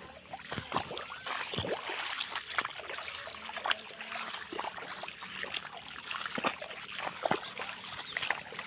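Footsteps splashing through shallow rainwater: irregular sharp splashes roughly every half second to a second over a steady wet trickle.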